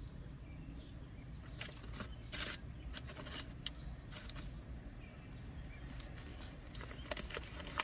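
Close-up chewing and mouth sounds of someone eating a soft cheese-filled bread bite, with a few short sharp smacks between about two and three and a half seconds in, over a low steady rumble.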